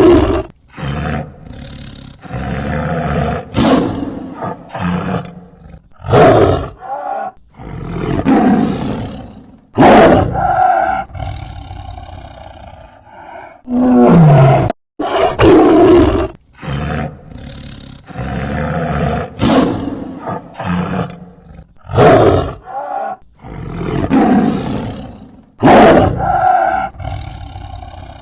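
Tiger roaring again and again, loud roars every second or two with quieter stretches between.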